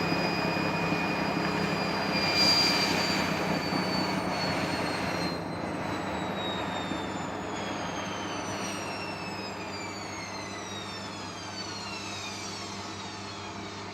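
Hotpoint Smart Tech washing machine winding down from its final spin: the motor whine falls steadily in pitch and the running noise slowly fades as the drum slows.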